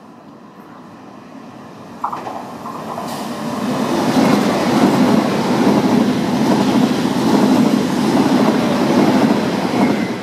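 Trenitalia ETR 610 Frecciargento electric trainset running through a station at speed. A rising approach with a sharp clack about two seconds in becomes a loud, steady rush of wheels and air for about six seconds as it passes, then eases off near the end.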